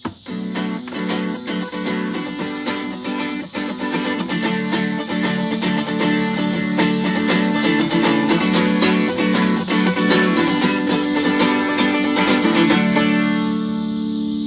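Guitar strummed in a quick, even rhythm as the instrumental close of a worship song, ending on one chord left to ring near the end.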